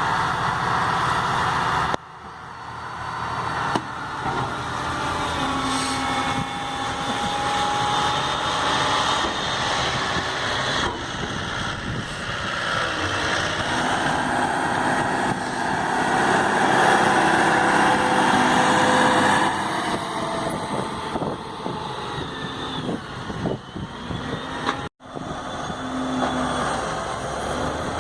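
Heavy diesel engines of farm machinery running under load, tractors and forage harvester, with the engine note rising and falling; the sound breaks off abruptly about two seconds in and again near the end as one clip cuts to the next.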